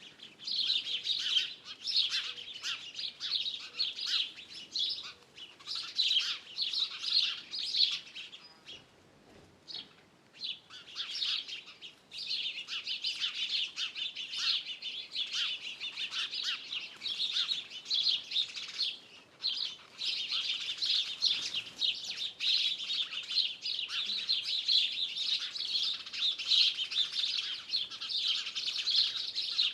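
Small birds chirping and twittering in a dense, almost unbroken chorus of quick high notes, with a short lull about nine seconds in.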